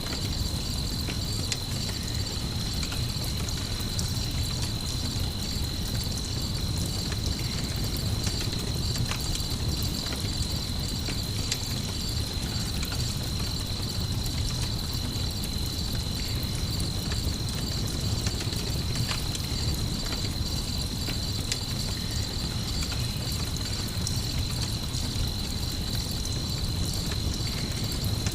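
Layered night ambience: crickets chirring steadily over the crackle of a campfire, with scattered small pops and a low rumble underneath.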